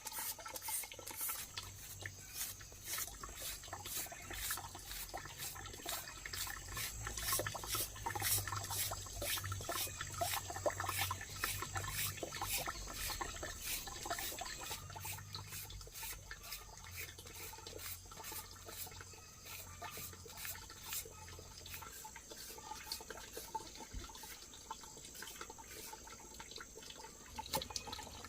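Water dripping and splashing: many irregular small ticks and drops, a few each second, over a faint steady high hiss.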